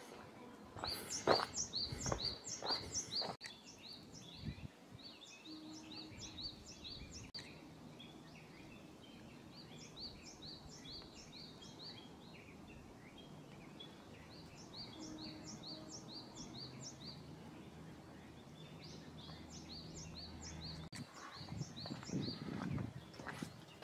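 A small songbird singing: runs of six to eight quick, high chirps, repeated every few seconds over outdoor background noise. Brief low rustling is heard near the start and again near the end.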